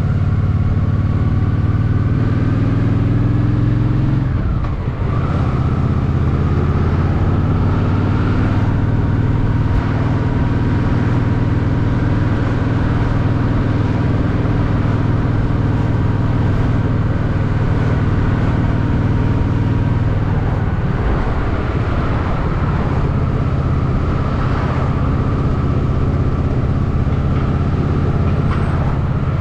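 Honda Shadow VT750's V-twin engine running steadily while riding. The engine note drops briefly about four seconds in, as in a gear change, and changes again around twenty seconds in before settling back to a steady run.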